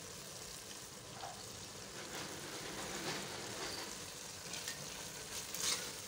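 Kachnar and minced-meat curry frying in oil in a non-stick pot: a steady, moderate sizzle, the masala being fried down (bhuna). Near the end a silicone spatula stirs through it, adding a few brief scraping sounds.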